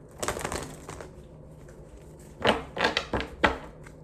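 Rustling handling noise, then three sharp taps or knocks on a hard surface, a little under half a second apart, beginning about two and a half seconds in.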